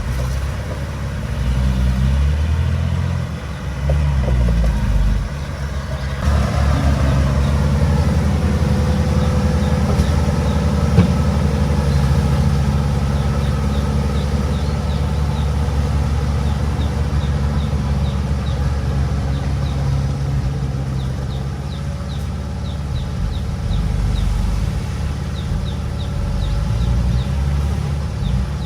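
Heavy-equipment diesel engine running steadily, with a change in its engine note about six seconds in.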